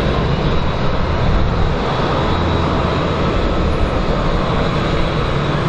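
Airbus A330 twin-engine jet airliner landing: a loud, steady jet-engine noise with a faint high whine running through it.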